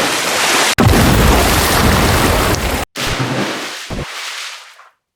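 Loud rushing, rumbling noise in three back-to-back clips with abrupt cuts between them, the last fading out near the end.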